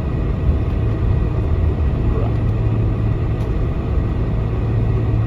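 Steady cabin rumble of a Boeing 747-400 taxiing, its engines at taxi power, with a constant low hum underneath.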